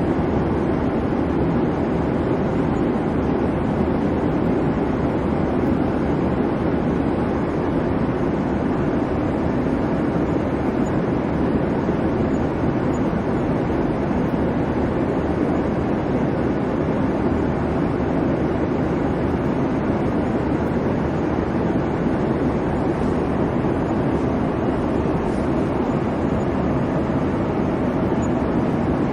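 Airplane cabin noise in flight: a steady, even rumble and hiss from the engines and airflow, strongest low down, with no changes.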